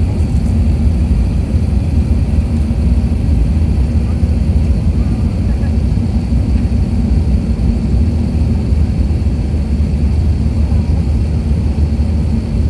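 Steady low rumble of engine and airflow noise inside the passenger cabin of an Emirates Airbus A380, with faint steady high-pitched tones above it.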